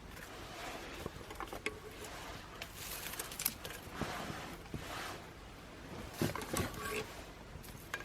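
Small twig fire burning in a home-made sheet-aluminium fire stand, giving irregular crackles and pops, with a few louder clustered bursts about three and six seconds in.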